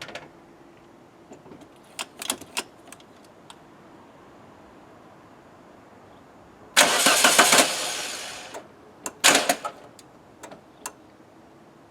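A few light clicks, then the Renault 21's 1.7 litre carburettor engine is cranked over: about two seconds of starting, fading away, then a second shorter try. It does not stay running.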